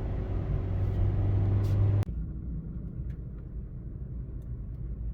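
Car driving, heard from inside the cabin: a steady low engine hum with road noise. About two seconds in it cuts off abruptly to a quieter low rumble.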